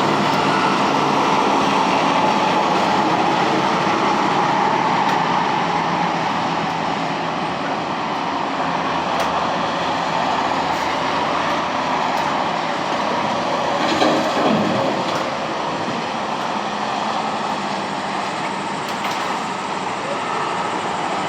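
Steady rumble and hiss of a moving vehicle, with a brief louder knock about two-thirds of the way through.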